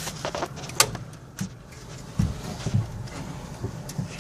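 Scattered knocks and clicks of hands-on work, with one sharp click about a second in and a few duller knocks after it.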